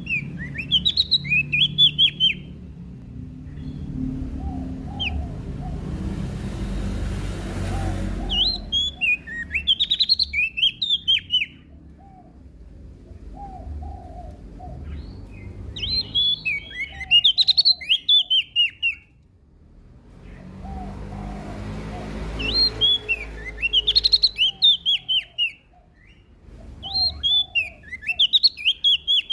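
Prenjak daun songbird singing: bursts of rapid, high twittering chirps, each a few seconds long, coming about every six seconds. Softer, lower warbled notes fall between the bursts over a low rumble.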